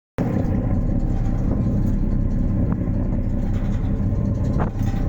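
Ferry engine running with a steady low rumble, with a few faint ticks over it.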